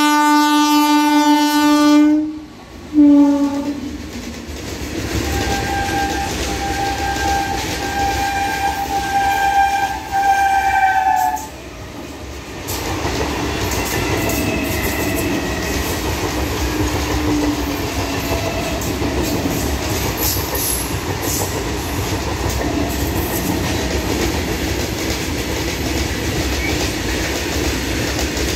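Electric train horns: a deep horn sounds one long blast and then a short one, and a higher-pitched horn is held for about six seconds. Then comes the steady running noise and clickety-clack of wheels over rail joints as a suburban EMU local train and a long freight train pass close by.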